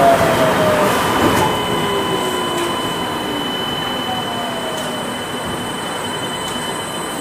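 Interior running sound of a Kanazawa Seaside Line 2000-series rubber-tyred automated guideway train. The traction motor whine falls in pitch over the first few seconds as the train slows, then fades. A steady high whine runs on over the rolling rumble as the sound gets quieter.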